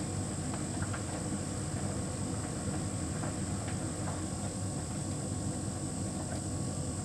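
Hotpoint heat pump tumble dryer running steadily, its drum turning with a low rumble under a faint high steady whine, with occasional faint ticks.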